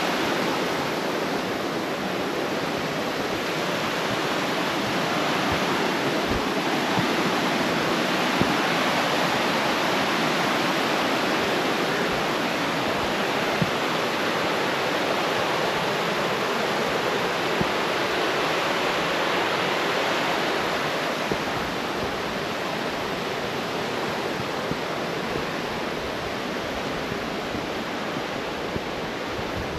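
Creek water tumbling over a small waterfall, rushing steadily.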